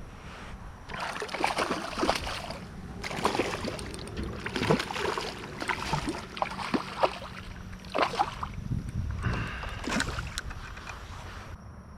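Irregular bursts of water sloshing and sharp knocks around a fishing kayak.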